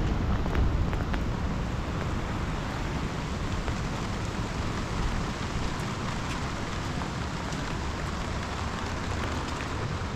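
Steady rain falling: a constant hiss with scattered faint drop ticks and a low rumble underneath.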